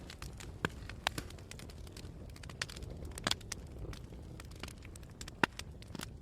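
Campfire of burning wood crackling, with scattered sharp pops, a few loud ones about a second apart at first and then more spread out, and many small ticks over a low steady rumble.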